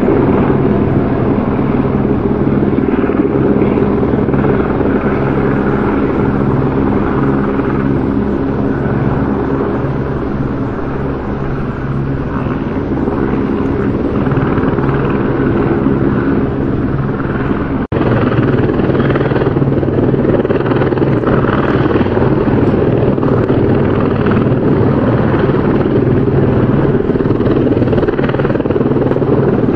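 Helicopter running steadily, its rotor and engine making a continuous dense drone with steady low tones. A momentary drop-out comes about two-thirds of the way through, and the same sound carries on after it.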